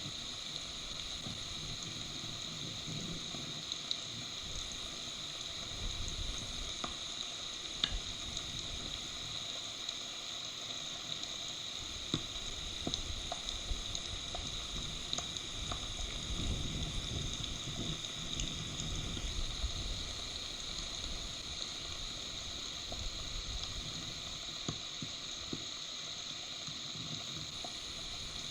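Steady rain hissing down on the forest and the stork nest, with scattered drops tapping close to the microphone. Gusts of wind rumble on the microphone now and then.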